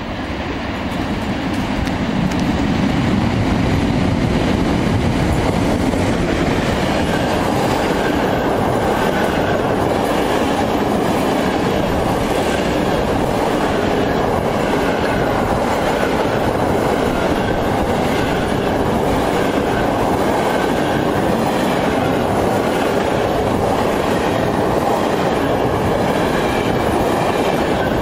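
Freight train of empty flat wagons behind an EU07 electric locomotive passing at speed, the wheels clattering rhythmically over the rail joints. The sound swells over the first few seconds and then holds steady.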